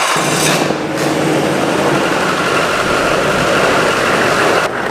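LB7 Duramax 6.6-litre V8 turbodiesel running steadily on an engine stand, just after its first start following a rebuild and stand-alone harness wiring.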